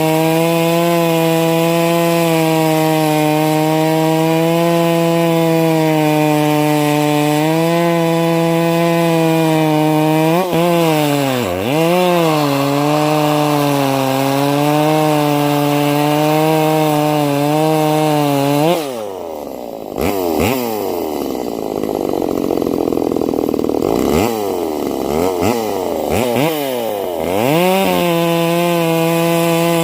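Ported, muffler-modded Stihl 025 (MS 250) two-stroke chainsaw running at high, steady revs while ripping white oak. Its revs dip and recover briefly about a third of the way in, then drop and climb again several times in the second half before settling back to high revs near the end.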